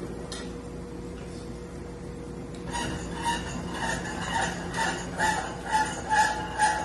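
Repeated short metallic clinks with a ringing tone start about two and a half seconds in, two or three a second, over a steady hum.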